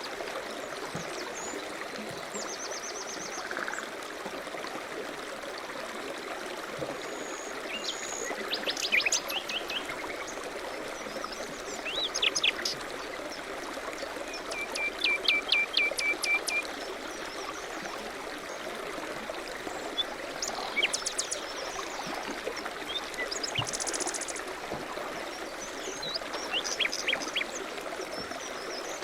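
Steady rush of flowing river water, with small songbirds chirping and singing over it: several short songs and quick trills of rapidly repeated notes.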